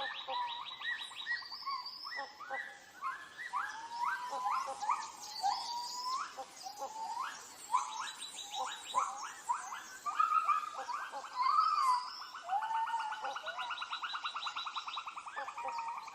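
Tropical rainforest ambience: many short rising whistled animal calls overlapping a fast, steady pulsing trill.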